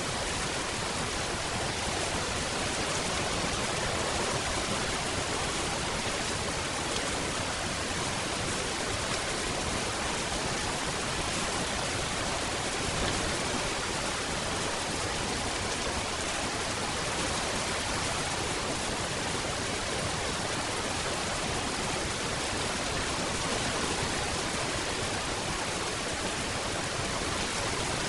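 Steady rain falling, a continuous even hiss with no distinct drops, thunder or breaks.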